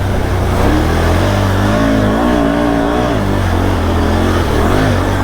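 ATV engine revving hard with a wavering pitch as the four-wheeler is gunned through a deep mud hole and bogs down, getting stuck.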